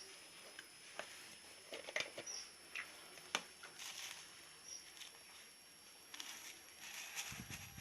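Faint light taps, scratches and rustles, with a few very short high peeps, as a small caged munia finch moves about its cage.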